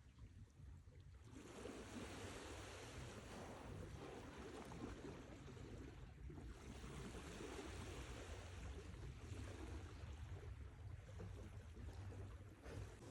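Sea waves breaking and washing up the shore, faint, in two long surges that swell and fade.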